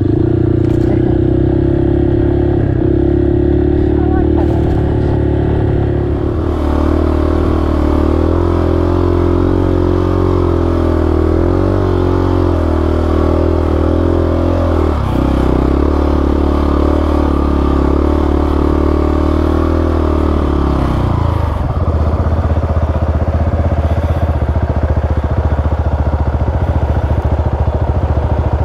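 Single-cylinder dual-sport motorcycle engine pulling steadily under throttle through soft sand. The engine note changes about six seconds in and dips briefly near the middle, as at a gear change, then falls to a lower, easier note after about 21 seconds as the throttle is eased.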